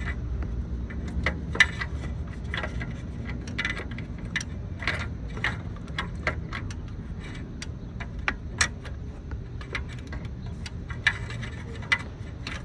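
Irregular metallic clicks and clinks of a socket, extension and ratchet being worked by hand on a rear engine fastener, over a steady low rumble.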